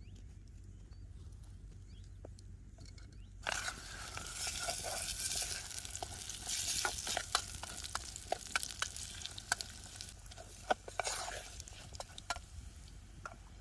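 Food sizzling in a hot pan. A hiss full of sharp pops sets in suddenly about a quarter of the way in and dies down near the end.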